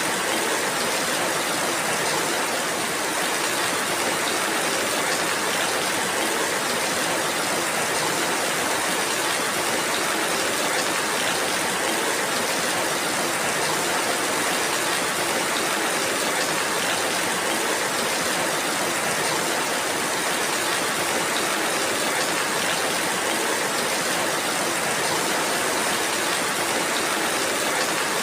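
Steady rainfall, an even hiss of rain that neither builds nor eases.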